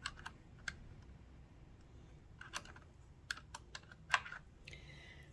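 Small parts inside a Kenmore sewing machine's zigzag mechanism clicking and tapping as a piece is worked loose by hand: scattered light clicks, the sharpest about four seconds in.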